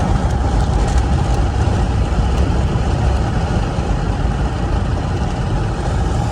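Steady low rumble of a car's engine and road noise, heard from inside the car, with a faint steady hum above it.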